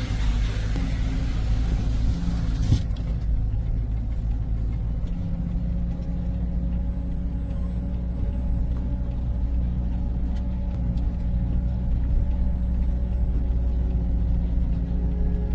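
Truck engine running with a steady low rumble; the higher hiss drops away suddenly about three seconds in.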